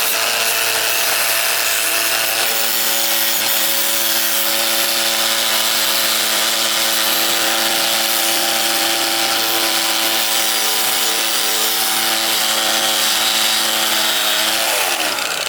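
Handheld electric power tool running steadily under load, its motor whine under a loud, rough hiss. Near the end the motor winds down and stops.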